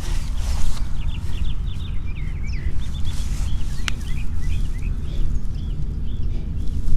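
Small birds chirping repeatedly in quick short notes over a steady low rumble, with one sharp click about four seconds in.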